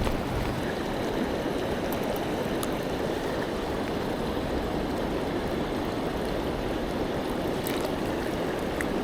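River water rushing steadily, with a couple of faint ticks near the end.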